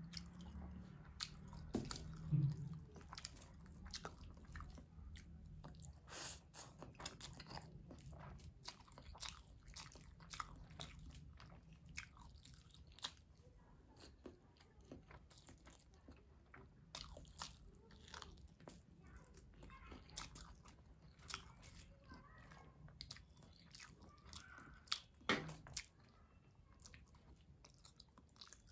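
Close-up chewing of mutton biryani eaten by hand: steady wet chewing with many short mouth clicks and smacks, a couple of them louder, about two seconds in and near the end.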